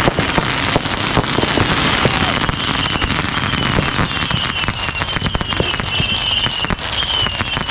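Consumer fireworks going off in a dense run of cracks and pops, with a series of short high whistles repeating about twice a second from a few seconds in.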